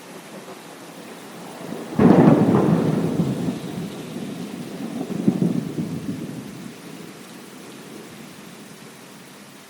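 Thunderclap over steady rain: a sudden crack about two seconds in, rumbling on with a second swell a few seconds later and fading back into the rain.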